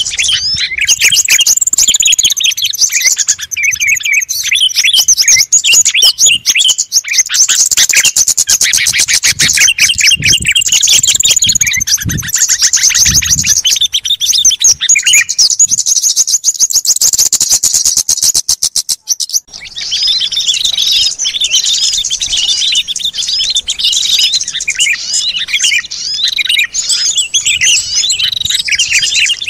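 Bird-lure recording of many small songbirds calling together: a dense, loud jumble of high chirps and twitters. A fast buzzing chatter runs through the middle and breaks off about two-thirds of the way through, before the chirping carries on.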